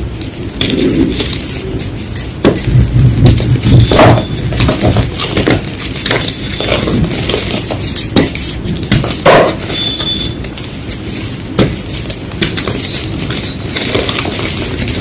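Blocks of gym chalk crunching and crumbling, a dense, irregular run of sharp, crisp crunches and crackles.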